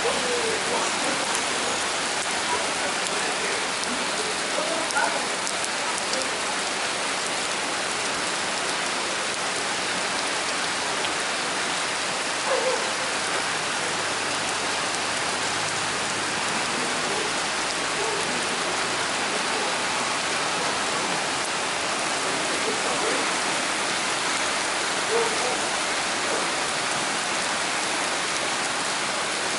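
Torrential rain pouring down in a steady, even hiss as it hits the surfaces below. A few brief louder sounds stand out now and then.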